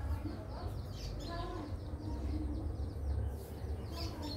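Birds chirping outdoors: quick, repeated high chirps over a steady low rumble, with a few lower calls mixed in.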